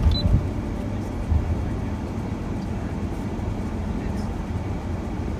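Steady low rumble of a passenger van driving, engine and tyre noise heard from inside the cabin, with a couple of short bumps in the first second and a half.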